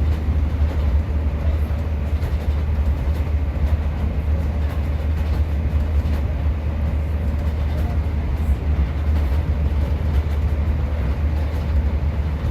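Class 150 diesel multiple unit heard from inside the carriage: a steady low rumble from its diesel engine and the wheels running on the rails.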